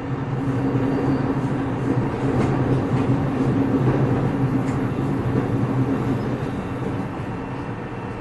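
Running sound inside a motor car of a JR 209 series electric train under way: wheel and rail noise with a steady motor and gear hum that grows louder about half a second in and eases off toward the end, with a few faint clicks.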